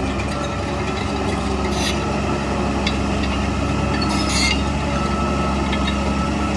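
Heavy diesel earthmoving machine running steadily. Brief scraping, hissing noises come about two seconds in and again around four seconds in, with a few light metallic clinks.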